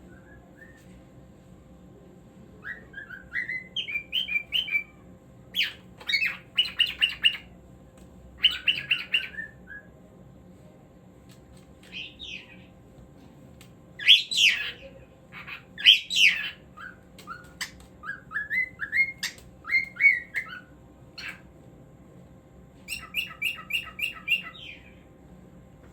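Cockatiel singing: bouts of whistled notes and chirps, some rising glides, some quick runs of repeated notes, with pauses between phrases.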